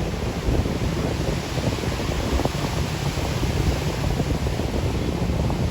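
Big surf breaking and washing in, a steady, even wash of noise with wind rumbling on the microphone.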